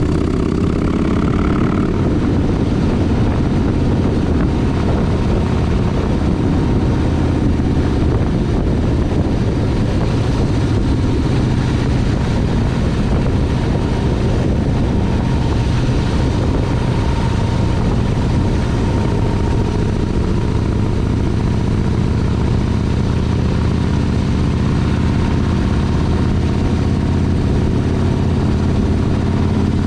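Motorcycle engine running steadily while riding, its low drone shifting a little in pitch over a constant rush of noise.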